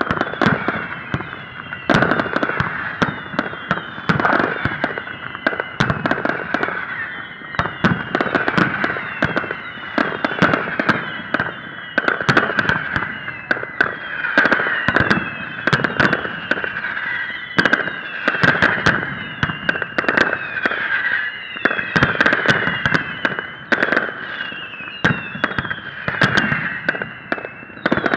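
Fireworks display: shells launching and bursting in a rapid, unbroken string of sharp bangs and crackles. Many short shrill whistles, each falling in pitch, run over a steady high whistling tone.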